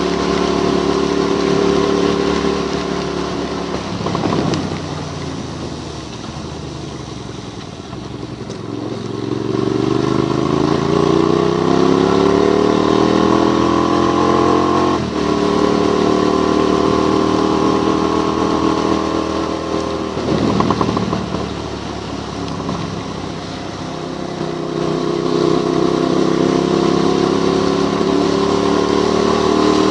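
Motorcycle engine under way. It eases off about four seconds in, then climbs in pitch as it accelerates, breaks off sharply at a gear change about halfway through, eases off again a little later, and climbs once more near the end.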